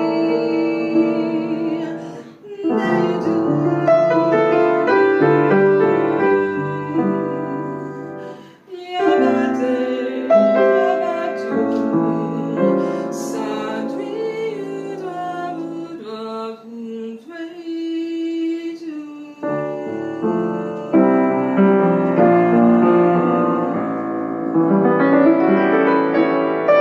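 Piano music: a slow, lyrical arrangement, with short breaks in the phrasing about two and a half and eight and a half seconds in.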